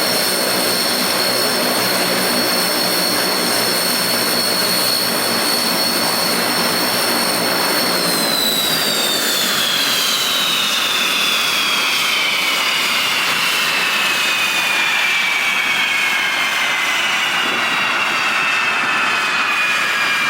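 Ilyushin Il-18's four Ivchenko AI-20 turboprops running with a steady high turbine whine and a low propeller hum. About eight seconds in, the whine starts gliding steadily down in pitch and the hum fades, as the engines spool down.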